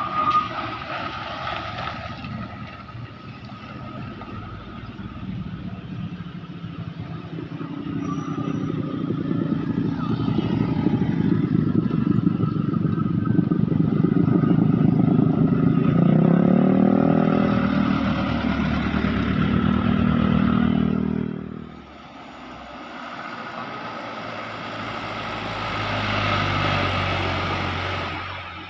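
Road traffic passing: a vehicle's engine grows louder over several seconds, its note rising and falling around the loudest stretch, then drops away abruptly. A second vehicle passes near the end.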